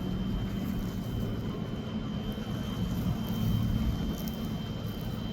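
Steady low rumble of a distant engine, with a held low hum and a faint high steady whine under it.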